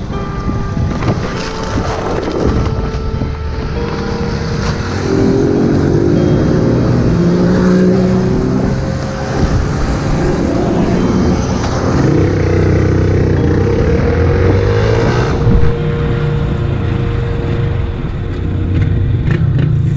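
Motorcycle engine running under way, its pitch rising and falling repeatedly with the throttle, over steady wind and road noise.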